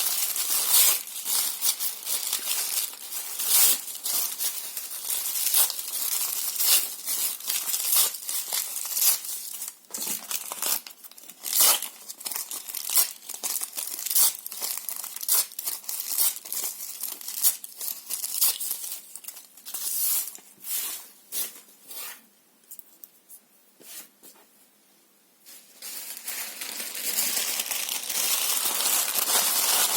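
Paper being torn and crumpled: a dense run of quick rips and crackles that dies down to near silence for a few seconds past the middle, then picks up again as steadier crinkling toward the end.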